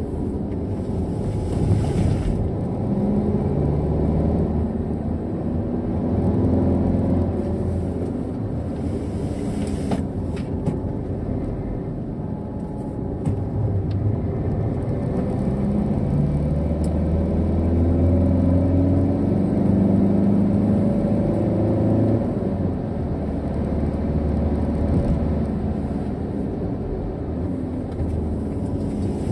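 Car engine heard from inside the cabin, rising in pitch again and again as it accelerates out of the bends and dropping back between, over steady tyre and road noise.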